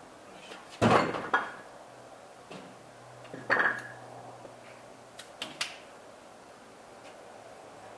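Metal tools and carburetor parts clanking and clinking as they are handled, in three short clusters: a loud clank about a second in, another about three and a half seconds in, and a couple of lighter clinks a little after five seconds.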